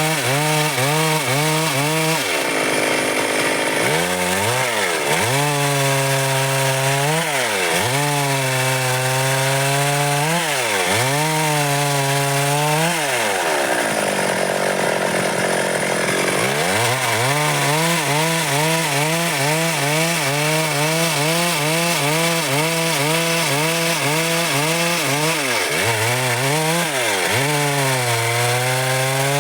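Stihl MS 382 two-stroke chainsaw cutting dry wood, its engine note sagging as the chain bites and recovering again and again. The deepest drops come about three seconds in and for a few seconds in the middle.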